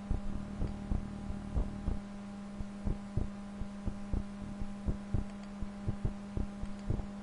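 Steady low electrical hum with irregular soft clicks and thumps of a computer mouse and keyboard being worked near the microphone.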